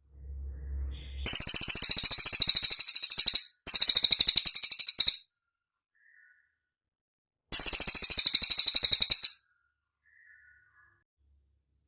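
Cililin bird singing: three loud, very high-pitched rapid trills of about two seconds each, separated by short pauses, with a couple of faint short chirps in the gaps.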